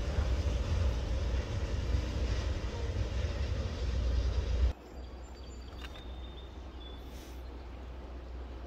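Rumble of a train in motion. It cuts off abruptly a little under five seconds in, leaving a quieter steady low hum.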